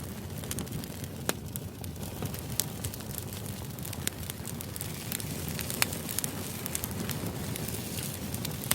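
White-noise ambience track: a steady low rumble with irregular sharp crackles and pops scattered throughout.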